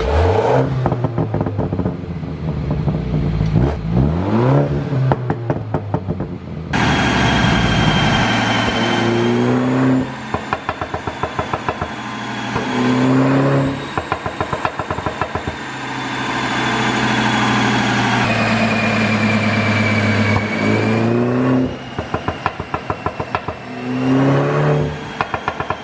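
BMW 330i's turbocharged four-cylinder engine revving up and falling off again several times. Each time the revs drop, the exhaust lets out a rapid string of pops and crackles on the overrun from its pop-and-burble tune.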